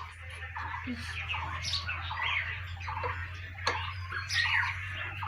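Birds chirping and squawking repeatedly, over a low steady hum.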